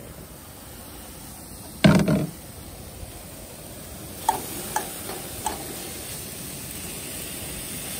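Leftover chicken and rice tipped into a pan with a loud clatter about two seconds in, followed by a faint sizzle as it starts to heat and a few light taps of a utensil against the pan.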